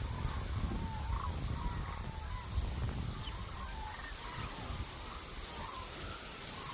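A flock of hooded cranes calling: many short, repeated calls at much the same pitch, overlapping one another, over a low rumble of wind on the microphone.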